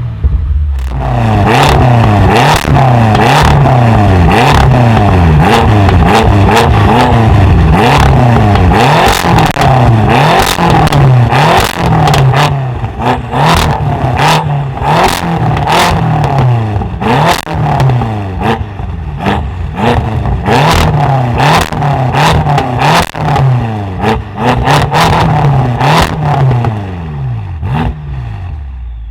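A tuned car's engine revved hard over and over, about once a second, with many sharp exhaust pops and cracks between the revs. It eases off near the end.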